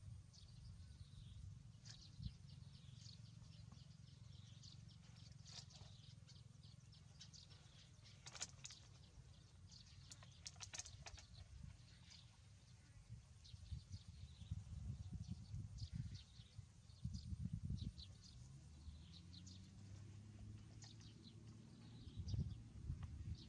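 Faint, scattered high bird chirps over a low, steady rumble.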